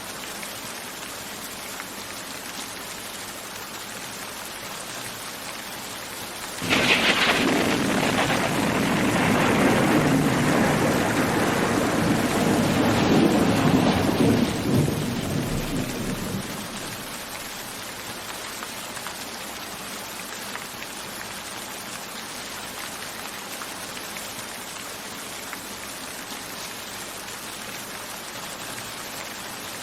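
Steady rain with a thunderclap about seven seconds in: a sudden sharp crack followed by a long rolling rumble that fades away over about ten seconds.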